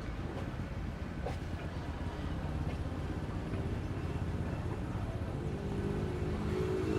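A motor engine running with a low rumble, growing louder near the end as a steady engine tone comes in.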